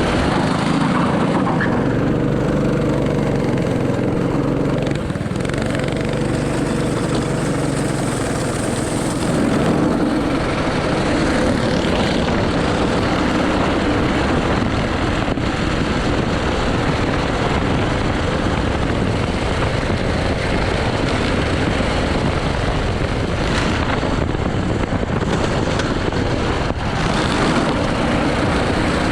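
An 80cc kart engine running hard through a lap, its note rising and falling with the throttle and shifting pitch most in the first ten seconds, over a steady rush of noise.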